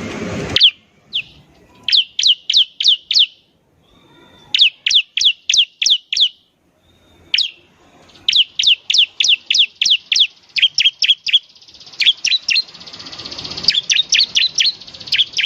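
Bar-winged prinia (ciblek) singing in the 'semi' style: runs of five to eight sharp, high, down-slurred whistled notes at about three a second, broken by short pauses, with a continuous high buzzy trill underneath in the last few seconds.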